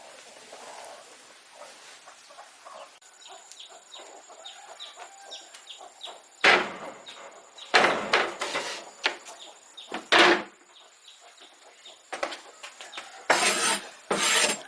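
Small birds cheeping: short, high, down-slurred chirps repeated a few times a second. From about halfway, several loud knocks and rustling clatters, the loudest sounds, break in.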